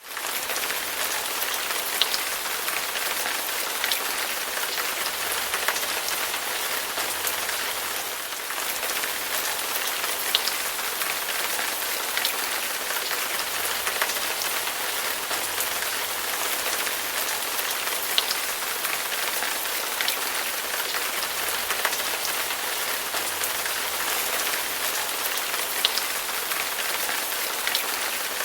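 Steady rain falling, an even hiss with scattered close drops tapping sharply every second or two.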